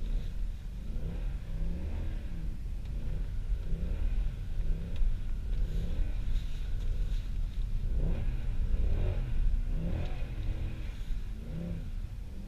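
The Kleemann K1-tuned Mercedes C63 AMG's 6.2-litre V8 being revved up and down over and over, its pitch rising and falling about once a second over a steady low rumble.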